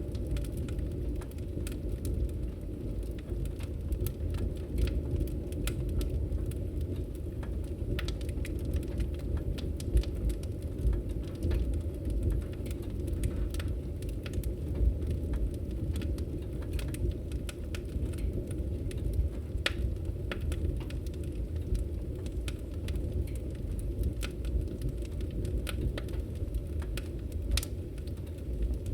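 Wood fire crackling in a fireplace: frequent sharp pops and snaps, irregularly spaced, over a steady low rumble of burning.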